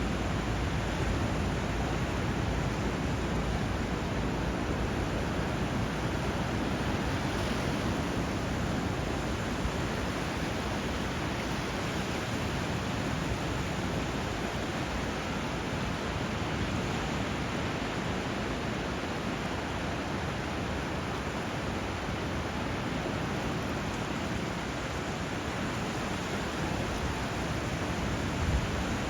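Steady rushing of flowing water, an even hiss without distinct breaking waves or bird calls, with one brief louder moment near the end.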